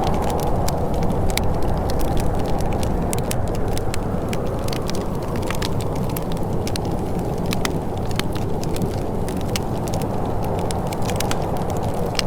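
Wood fire crackling, with many irregular sharp pops and snaps over a steady low rushing noise.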